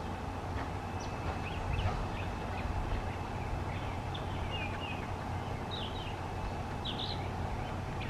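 Scattered short bird chirps over a steady low hum, with a few quicker chirps near the end.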